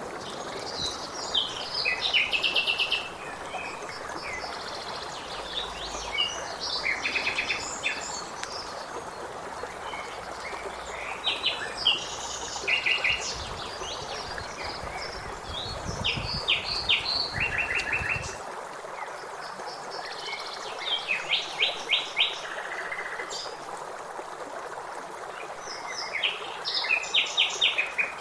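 Songbirds singing, short phrases with fast trills coming every few seconds, over a steady background hiss.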